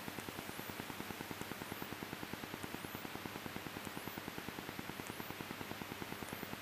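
Faint steady hiss of the cockpit intercom feed, with a fast, even pulsing under it from the Cessna 172's engine running at reduced power on the approach.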